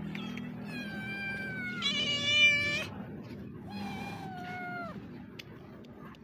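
Street cat meowing three times, each long call dropping in pitch at its end, the middle one loudest.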